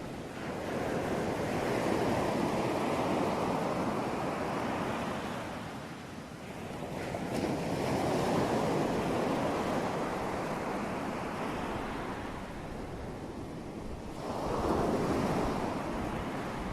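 Ocean surf: waves breaking and washing in, swelling and easing three times, about every six seconds.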